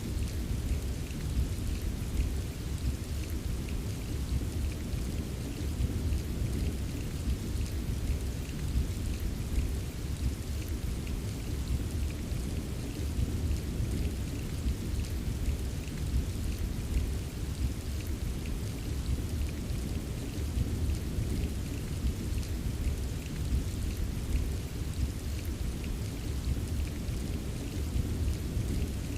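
Steady rain pattering with dense small drop taps, over a continuous low rolling rumble of distant thunder.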